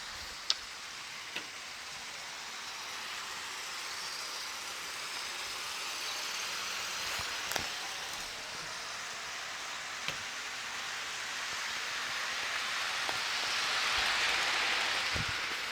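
HO scale model train running on its track: a steady rolling hiss and rattle of the locomotives and a long string of cars, with a few sharp clicks, getting louder near the end.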